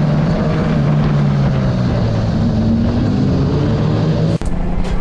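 Motorcycle engine running under way, heard from a rider-mounted camera with wind noise; its pitch rises a little and falls back. About four seconds in, the sound cuts abruptly to another motorcycle's steady engine drone.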